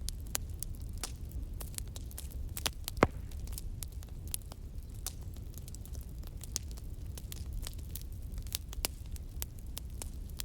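Fire crackling: irregular sharp pops and snaps over a steady low rumble of burning, with one louder pop about three seconds in.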